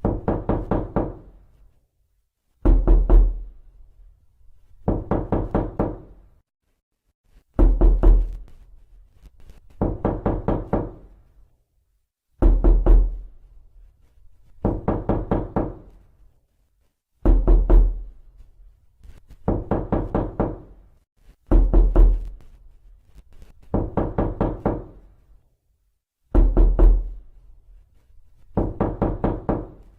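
Knocking on a door, in repeated bursts of four to six quick raps about every two and a half seconds, each burst opening with a heavy low thud.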